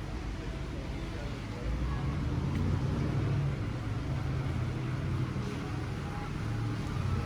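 Street traffic: a vehicle engine running close by, a low hum that grows louder about two seconds in and holds.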